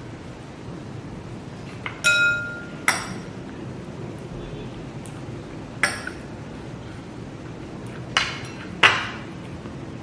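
Tableware clinking five times, a few seconds apart: hard taps of a utensil on dishes or glass, the first one ringing briefly with a clear tone.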